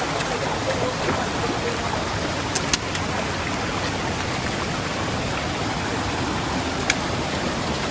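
Mountain stream flowing steadily, a continuous rush of water, with a few light clicks at about two and a half seconds in and again near the end.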